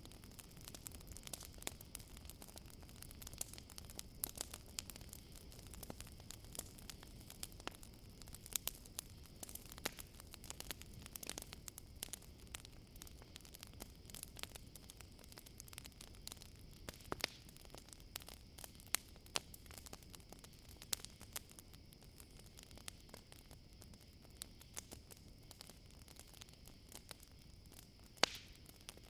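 Campfire crackling, with many sharp irregular pops and snaps, over a steady high chirring of crickets.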